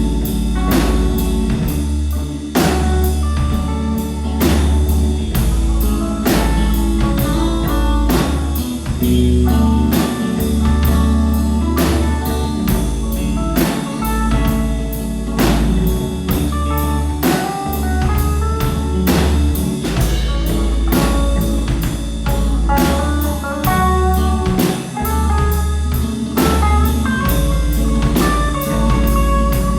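A rock band playing: a drum kit keeps a steady beat under bass and electric guitar, with a melody line moving on top.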